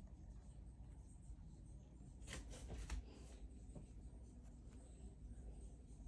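Near silence: faint room hum with a few soft rustles and clicks about two and a half seconds in.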